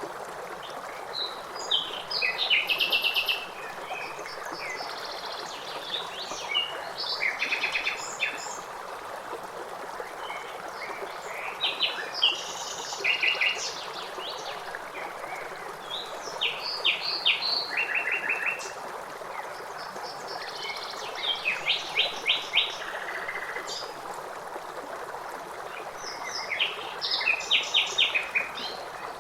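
Songbirds chirping in short, rapid trilled phrases every few seconds over the steady rush of flowing water.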